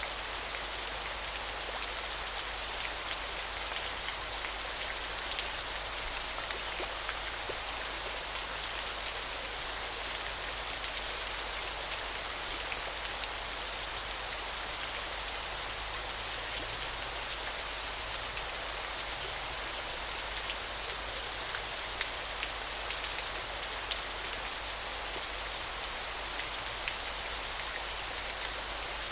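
Steady hiss of rushing water. From about eight seconds in, a high, thin, steady trill repeats in stretches of a second or two with short gaps between them.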